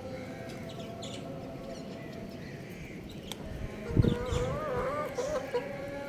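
Young rooster and chicks: scattered short chirps, then a knock about four seconds in followed by a wavering call of about a second and a half, over a steady background hum.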